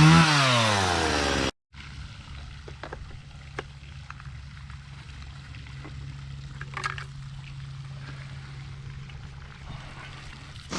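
Stihl two-stroke chainsaw revving up and back down, then cut off abruptly about a second and a half in. After that comes a low steady hum with scattered light clicks and knocks.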